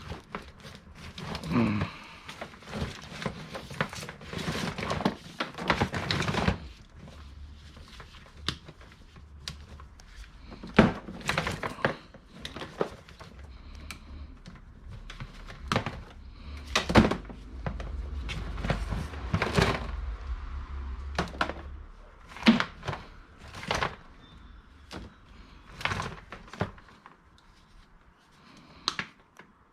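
Scrap e-waste being sorted by hand: irregular knocks and clatters of hard plastic pieces being handled and dropped, with some scraping and crinkling in the first few seconds.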